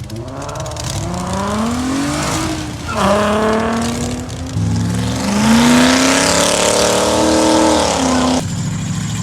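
Car engine accelerating hard as it pulls away, its pitch climbing, dropping sharply at a gear change about three seconds in, then climbing again before easing off near the end.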